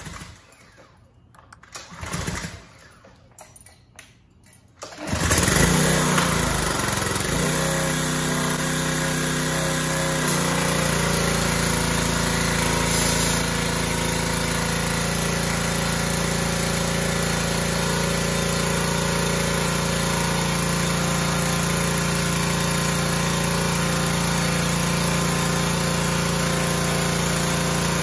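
Craftsman pressure washer's small gasoline engine starting about five seconds in after its carburetor was cleaned. It runs unevenly for a few seconds, then settles into a steady run.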